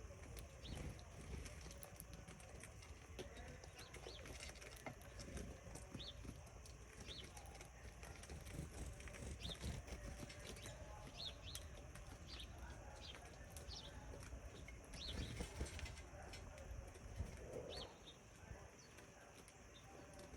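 Small birds chirping in short, scattered high notes over a faint, steady low rumble.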